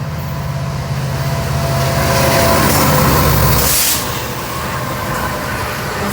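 Diesel locomotives of a Norfolk Southern freight train passing close by: a steady low engine rumble that drops away about four seconds in, with a brief hiss as it fades.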